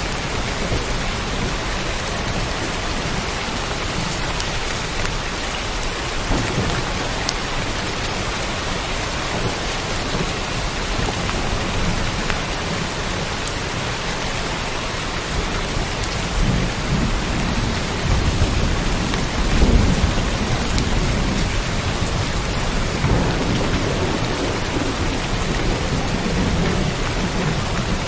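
Steady heavy rain. Low rumbles of thunder swell from about halfway through, are loudest a little past two-thirds in, and come back once more near the end.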